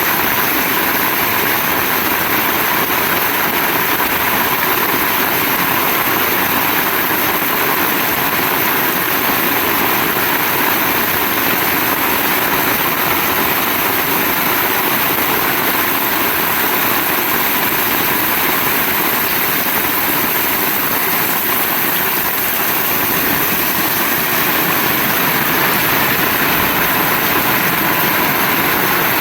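Heavy rain falling in a steady, dense hiss, with no let-up and no separate splashes or thunder standing out.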